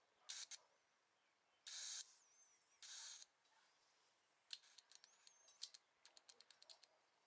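Two short spray hisses, then a quick run of clicks from a motorcycle fuel injector being pulsed open and shut with a 9-volt battery to flush it with cleaner.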